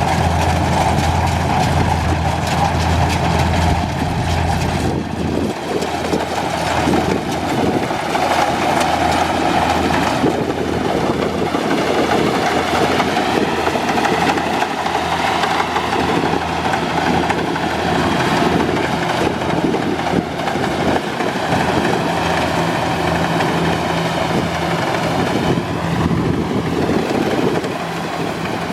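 Kubota combine harvester running steadily under work, a continuous loud engine and machinery noise; its low engine hum eases about five seconds in.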